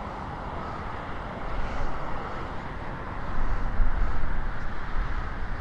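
Outdoor rumble and hiss, deepest at the bottom, that swells about a second and a half in and again about three and a half seconds in.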